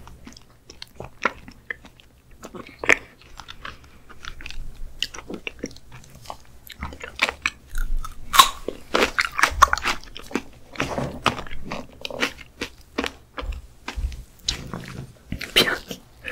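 Close-miked eating sounds of someone chewing raw skate liver: wet smacking and sharp little mouth clicks, busiest near the middle as a fresh bite goes in.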